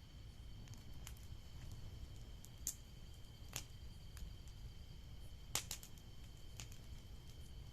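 Bonfire crackling: burning wood gives scattered sharp pops, about five, the loudest just past halfway, over a low steady rumble and a faint steady high whine.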